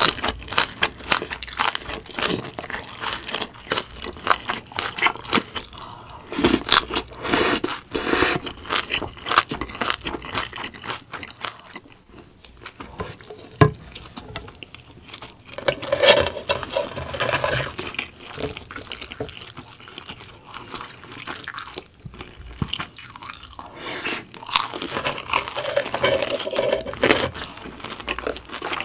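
Close-miked chewing and crunching of food, among it bite-size breaded pork cutlets, with wet mouth sounds and crisp bites in several louder bouts.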